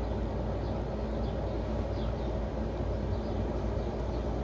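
Steady low background hum with no clear event in it.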